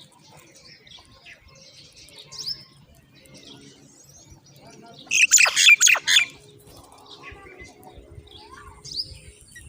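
Baby myna birds calling in a loud, rapid, high-pitched burst lasting about a second, starting about five seconds in, with scattered chirps before and after. Typical of nestlings begging for food.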